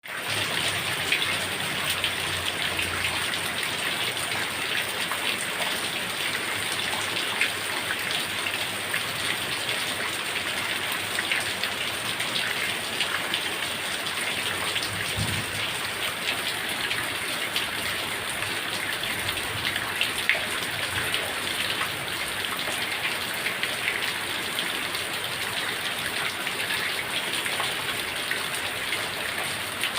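Heavy rain falling steadily, an even hiss dotted with the ticks of individual drops hitting a surface.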